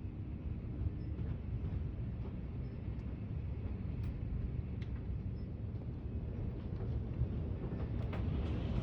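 Strong thunderstorm wind gusts, a steady low rumble, with a few light taps against the house.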